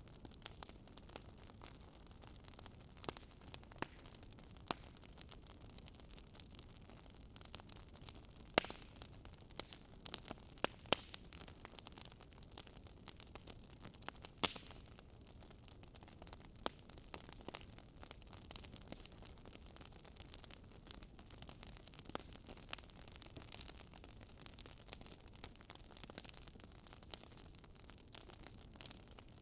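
Fireplace fire crackling: irregular sharp pops and snaps, a few louder than the rest, over a faint steady hiss.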